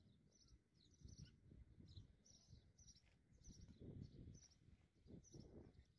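Near silence: faint outdoor background with a small bird chirping over and over, about once or twice a second, and a faint low rumble that swells a couple of times.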